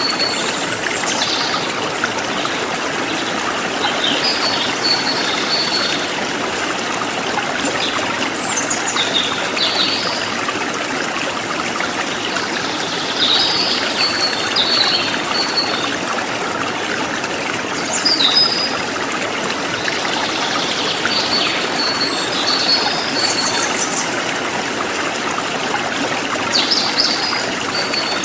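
A forest stream running steadily, with small birds chirping in short bursts every few seconds over the water.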